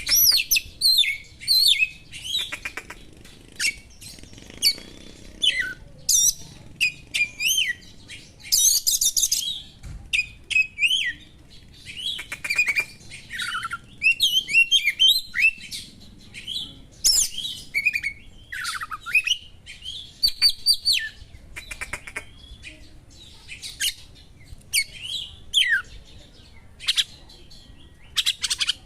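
Oriental magpie-robin (kacer) singing a fast, varied song of sharp chirps, whistles and trills in short phrases with brief pauses, mixing in small-bird calls.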